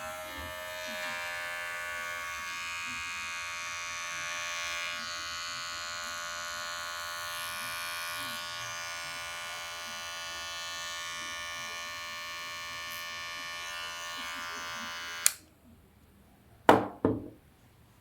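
Kemei electric hair trimmer running with a steady buzz, switched off with a click about fifteen seconds in. Two sharp knocks follow a moment later.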